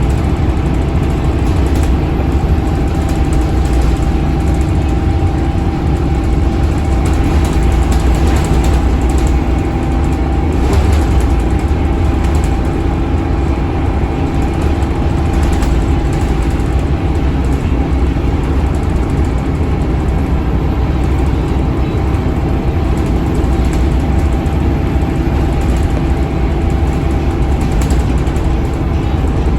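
Scania K280UB bus under way, its 9-litre five-cylinder Scania DC9 diesel running at a steady pitch through the ZF Ecolife automatic, with continuous road noise and occasional faint rattles.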